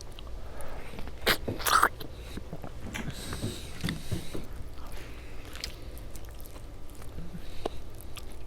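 A person chewing and biting food close to the microphone, with a few sharp clicks.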